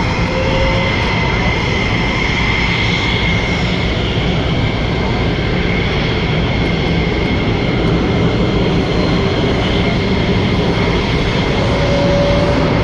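Airplane engine noise at an airshow: a loud, steady drone with a faint high whine held throughout.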